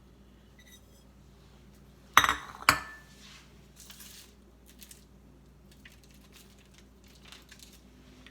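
Two sharp clinks of a utensil knocking against a dish about half a second apart, the second ringing briefly, then faint scraping and rustling as green onions are spooned out.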